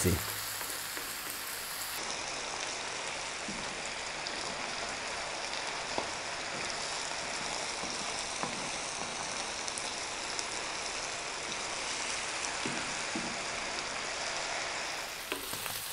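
Onion, green beans, bell peppers, olives and tuna sizzling in olive oil in a frying pan over medium heat, a steady hiss with an occasional faint tap of a wooden spatula stirring.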